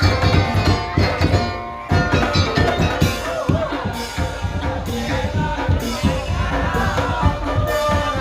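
Madurese ul-daul (tong-tong) troupe playing: dense, driving drum and percussion rhythm with a melody line over it, briefly dropping out just before two seconds in.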